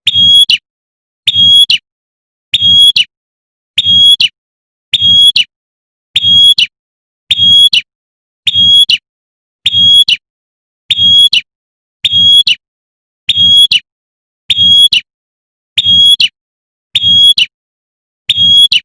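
Female prinia giving its sharp, shot-like call, a short burst repeated evenly about once a second: the call a female uses to summon a male.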